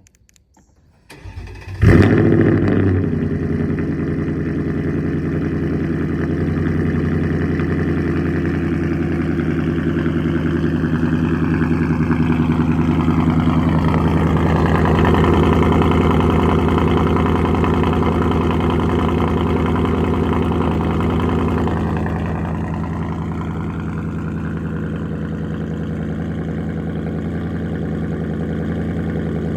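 Cold start of a 2024 Mustang GT's 5.0-litre V8 through an H-pipe and muffler delete: a brief crank about a second in, the engine catching loudly near two seconds, then settling into a steady high idle that eases slightly in loudness near the end.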